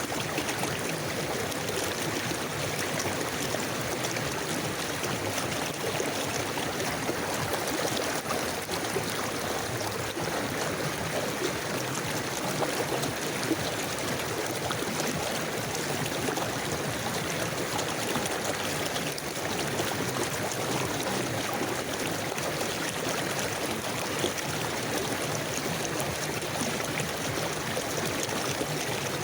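River water flowing steadily, a continuous even rush of stream water.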